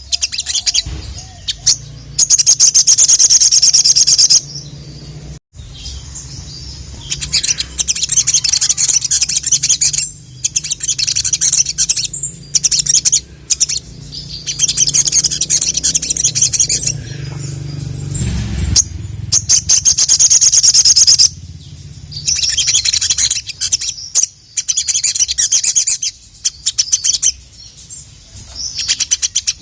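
Sogok ontong (sogon, the little spiderhunter) singing in full: repeated bursts of rapid, high-pitched chattering trills, each lasting a second to a few seconds, separated by short pauses. A faint low hum runs underneath.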